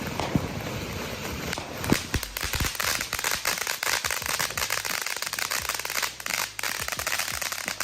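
Consumer fountain firework (Freedom Fireworks' Live Laugh Love) spraying with a hiss and a few pops, breaking about two seconds in into a dense, continuous crackle: the fountain's crackle finale.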